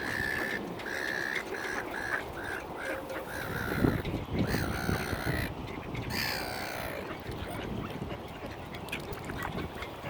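Waterbirds calling: a quick run of short, repeated calls, then a few longer, drawn-out calls.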